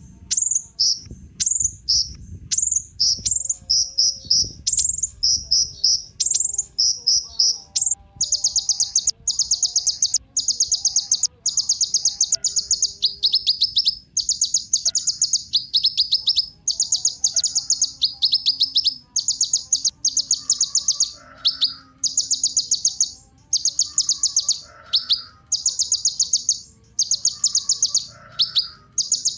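Kolibri ninja sunbird singing: very high, rapid trilled chirps. About a quarter of the way in they run together into long buzzy trills, repeated about once a second with short gaps, the bird in full song.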